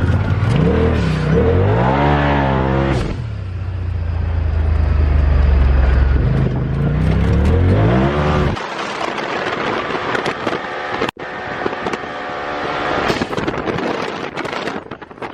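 Turbocharged side-by-side UTV engine revving hard under acceleration, its pitch climbing and falling several times. About eight and a half seconds in, the engine note cuts out abruptly, leaving a rushing noise.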